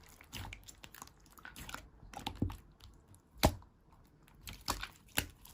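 Slime being squeezed and poked, giving irregular small wet clicks and pops, with a louder pop about three and a half seconds in and another near the end.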